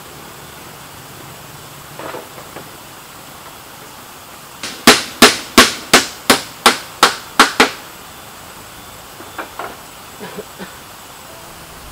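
Hammering during construction: a run of about nine sharp blows at roughly three a second, with a few lighter knocks before and after.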